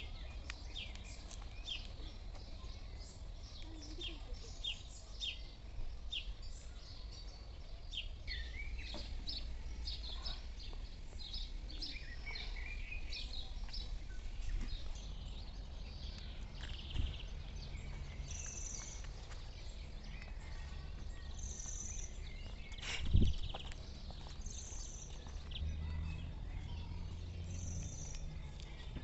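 Several birds chirping and calling, in short high notes and trills, over a low steady rumble. A single sharp knock about two-thirds of the way through is the loudest sound.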